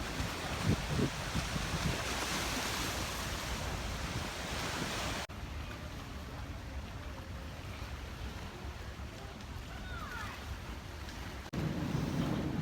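Wind buffeting the microphone over a wash of water, broken into three stretches by edits, the middle one quieter. After the last cut, about a second before the end, a low steady rumble comes in.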